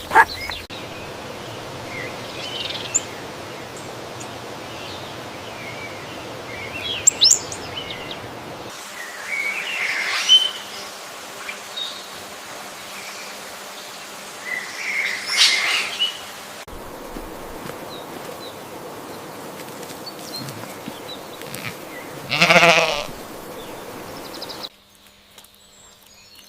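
Outdoor farmyard background made of several spliced clips whose ambience changes abruptly a few times, with birds chirping at intervals. About 22 seconds in comes one loud, wavering bleat from livestock.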